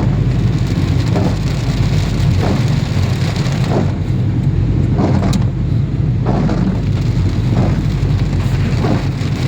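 Heavy rain with a steady low rumble of vehicle noise, and a swish that repeats about every second and a quarter.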